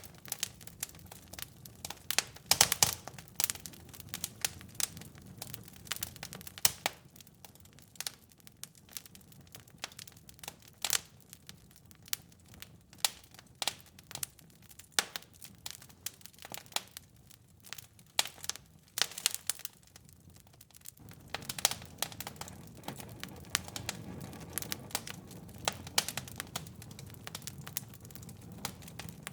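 Wood fire burning in a fireplace, crackling and popping in irregular sharp snaps over a low hiss of flames. The flame noise underneath grows fuller about two-thirds of the way through.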